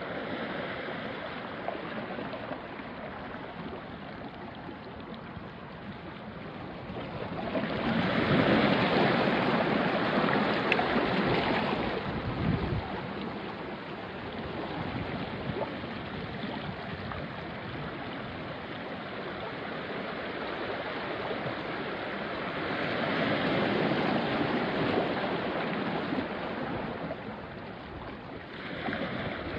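Small sea waves washing onto a rocky shore: a steady wash with two louder surges as waves break and run up the rocks, about a quarter of the way in and again past the middle, and a short one near the end.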